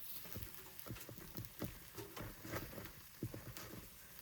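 Takoyaki cooking in a takoyaki pan: a faint sizzle under irregular small clicks and taps as picks turn the balls, which are crisping on the outside.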